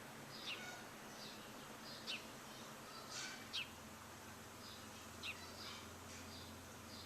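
Birds chirping: short, quick, downward-sliding chirps every second or so, with a few louder ones, over a faint steady background hiss.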